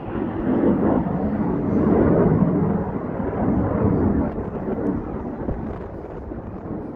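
Aircraft passing overhead: a broad rumbling noise that swells to its loudest about two seconds in and then slowly fades.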